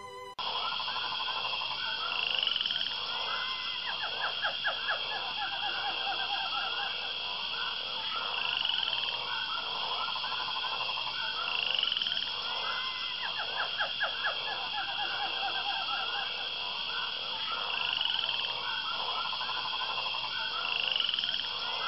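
Rainforest ambience sound effect: frogs croaking in repeated pulsed, rattling trills that swell every few seconds over a steady high drone. It starts abruptly about half a second in.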